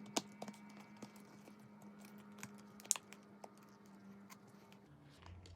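Faint scattered clicks and taps of small parts being handled and fitted, with two sharper clicks, one just after the start and one about three seconds in. A low steady hum runs underneath and stops about five seconds in.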